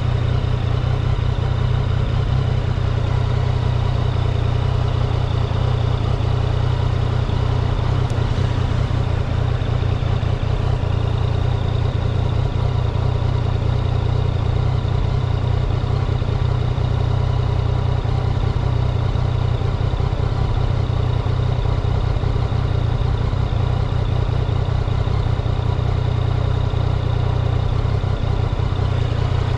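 An engine idling steadily, with a strong low hum that holds the same pitch and level throughout.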